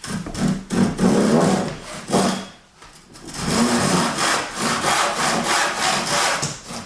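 A saw cutting through a wooden board in repeated back-and-forth strokes, pausing briefly about halfway through.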